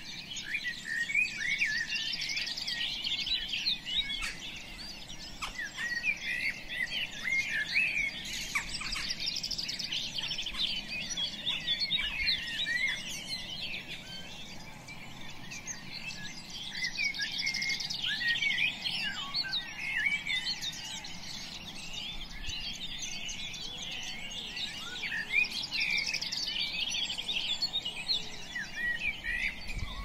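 Many birds chirping at once, a dense chorus of quick high chirps that swells and eases in waves.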